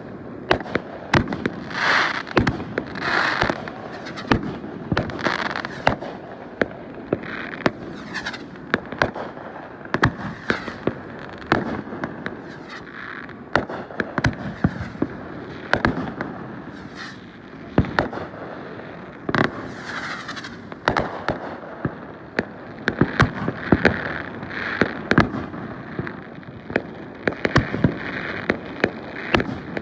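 Fireworks going off in quick succession: many sharp bangs and pops, irregular and close together.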